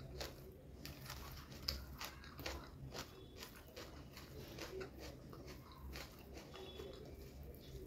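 Close-miked chewing of chicken biryani, with irregular small wet clicks and soft crunches, over a faint low hum.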